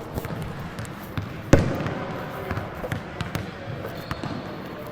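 Basketball bouncing on a hard court, a series of irregular dribbles with one noticeably louder thud about a second and a half in.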